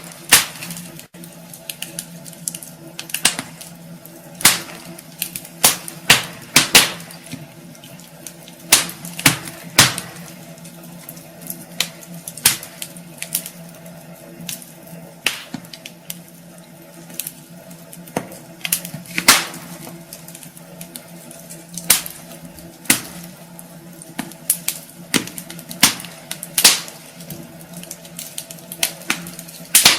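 Wood fire crackling in a fireplace: irregular sharp pops and snaps from the burning logs, a few a second, some much louder than others, over a faint steady hum.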